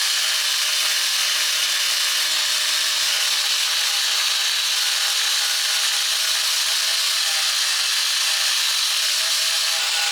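A power tool working steadily against a surface: a continuous, even abrasive hiss with a faint steady hum underneath.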